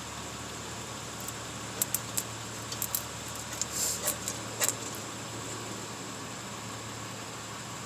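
Light metallic clicks and ticks, with a short scraping rustle, as brake caliper parts and slide pins are handled and greased. They come in a cluster from about two to five seconds in, over a steady background hum.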